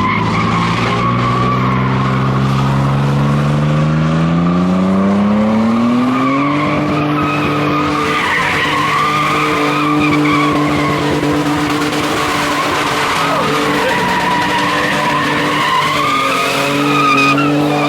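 A car's engine revving up over about six seconds and then held at high revs, its tyres squealing continuously with a wavering pitch, as in a drift or donut.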